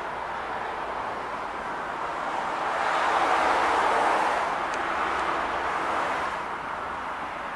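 Outdoor street noise with a passing vehicle: a smooth rushing noise swells from about two seconds in, peaks near the middle, and fades away over about four seconds.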